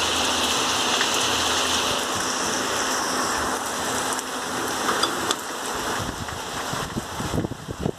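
Steady rain falling, an even hiss. In the last second or two, irregular low buffeting of wind on the microphone joins it.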